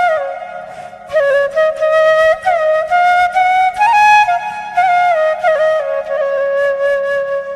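Background music: a solo flute playing a slow melody with sliding notes over a faint low drone.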